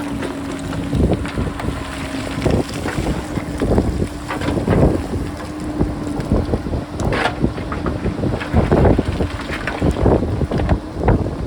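Wind buffeting the microphone over the steady hum of a JCB backhoe loader's diesel engine, with irregular clattering knocks of rocks breaking loose and rolling down a rocky hillside as the backhoe cuts into it.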